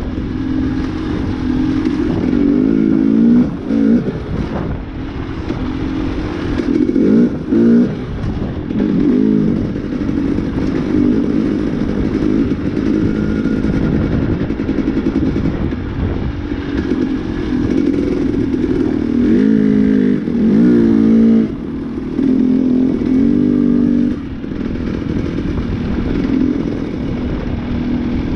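Dirt bike engine, heard from an on-board camera, revving up and falling off again and again as the rider works the throttle and shifts along a dirt track, with steady wind and road noise underneath.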